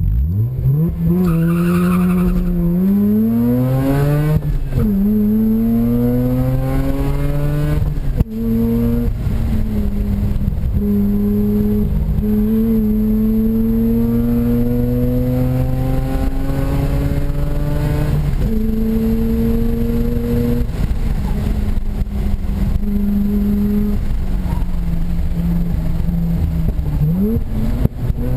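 Mazda RX-8's two-rotor Wankel rotary engine, with aftermarket intake and header-back exhaust, heard from inside the car at hard throttle on track. The engine note climbs steadily with revs and drops sharply at each upshift or lift, several times. There is one sharp knock about eight seconds in.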